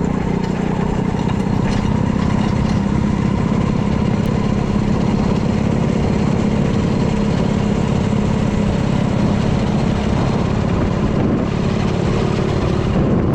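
Mini bike's small engine running steadily at an even speed, with no change in pitch.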